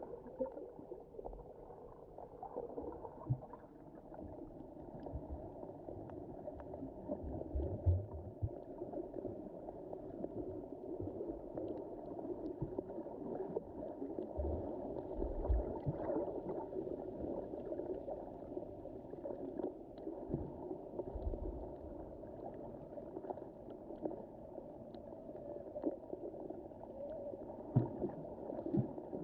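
Underwater sound of the shallow Mediterranean Sea: a steady, muffled wash of moving water, with occasional low thumps and faint ticks.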